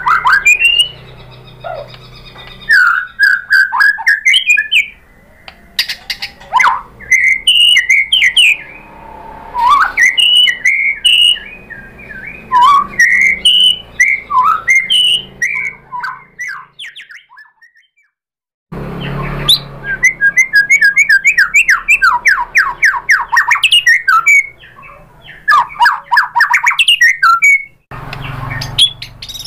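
White-rumped shama (murai batu) singing a varied song of loud whistles, chirps and fast trills, breaking off for about two seconds past the middle before starting again.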